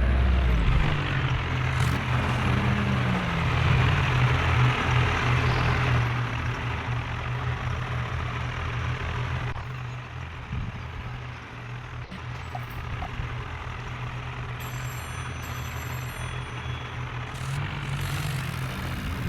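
Heavy diesel engines of tractors or a backhoe loader running under load while hauling a mired trolley. The engine revs up and falls back a few seconds in, and is loudest over the first six seconds before easing. A brief high-pitched beeping comes in about fifteen seconds in.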